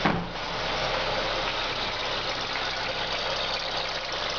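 Mitsubishi Colt Plus engine idling soon after a cold start, carrying the abnormal cold-engine noise that repeated adjustments have not cured. There is a brief louder sound right at the start.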